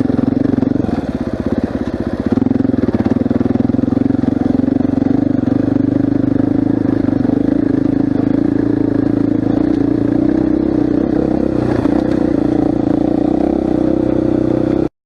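KTM 500 EXC's single-cylinder four-stroke engine running under load as the dirt bike is ridden, easing off briefly about a second in, then holding a steady speed. The sound cuts off suddenly near the end.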